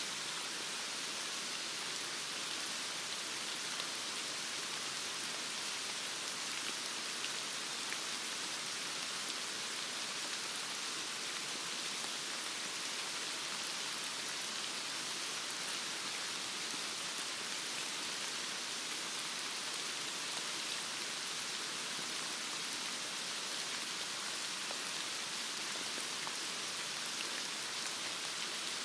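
Heavy rain falling steadily, an even hiss of rain with faint scattered drop ticks.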